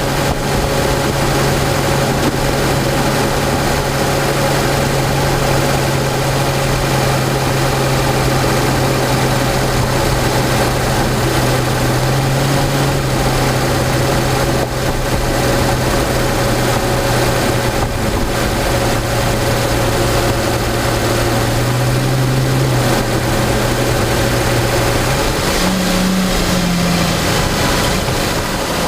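Mercedes-Benz CL600's twin-turbo V12 (M275) running at a steady low engine speed while the car is driven, a constant low drone over road noise. Near the end the engine note steps up in pitch.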